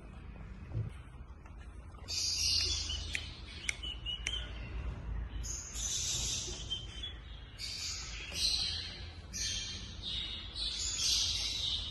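Small pet parrots calling in a run of harsh, hissy chirps, each about a second long, repeating every second or so. A few sharp clicks come among them early on.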